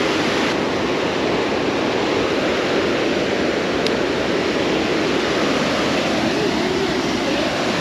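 Water pouring over a low-head roller dam: a steady, loud rush.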